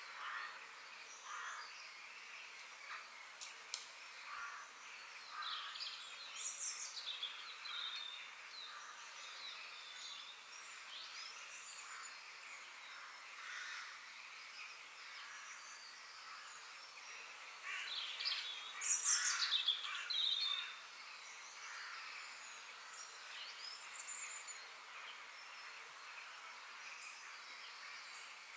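Several birds chirping and singing over a steady faint hiss of forest ambience, with a louder, busier burst of calls about two-thirds of the way through.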